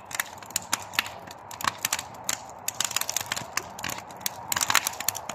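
Wood fire crackling: burning boards give off irregular sharp pops and snaps, several a second, over a faint steady hiss of the flames.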